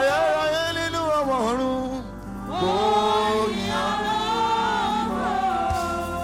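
Gospel singing in a worship song: long held, sliding vocal notes over backing music, with a short break about two seconds in.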